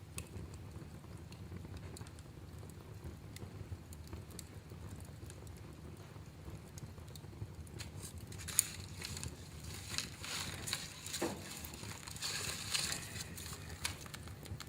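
Wood fire in a fireplace crackling, with scattered sharp pops over a low steady rumble. The crackling gets busier and hissier in the second half, starting with a loud pop about eight and a half seconds in.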